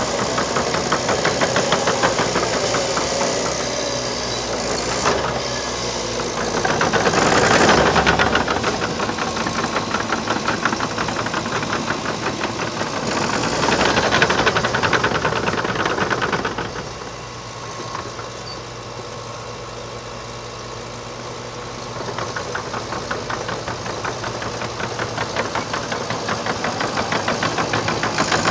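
Liebherr PR 726 crawler dozer's diesel engine running with a fast, even pulse. It swells louder about seven seconds in and again at about fourteen seconds, eases off for several seconds, then builds up again near the end.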